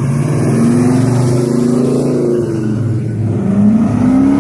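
Car engine revving hard as the car accelerates, its pitch climbing, easing off about halfway, then climbing again near the end.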